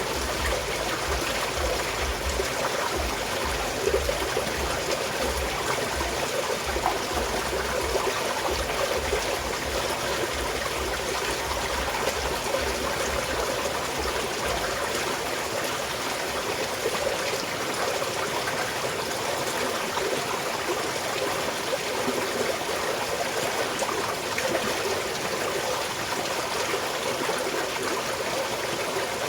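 Small stream of water flowing and trickling steadily. A faint low rumble underneath fades out about halfway through.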